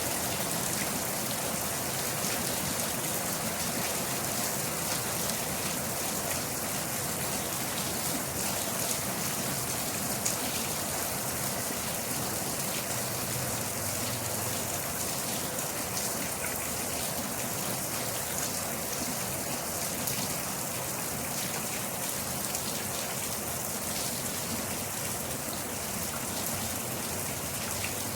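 Steady rain falling, with a dense patter of small drops hitting a surface.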